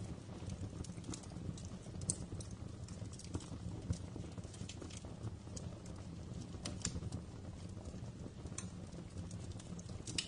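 Wood fire crackling and popping in a fireplace: irregular sharp snaps over a steady low rumble of the flames, with a few louder pops scattered through.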